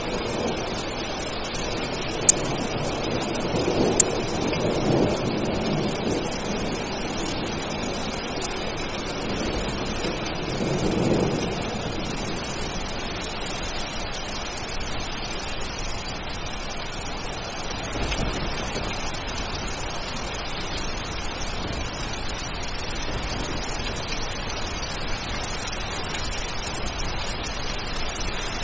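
Steady rain with thunder rumbling, swelling twice, about five and eleven seconds in. Two sharp clicks near the start.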